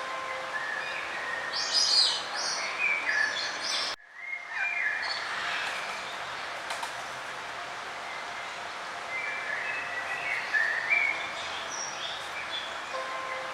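Songbirds singing short chirping phrases over a steady hiss of outdoor background noise. The recording cuts off abruptly about four seconds in and picks up again with similar song.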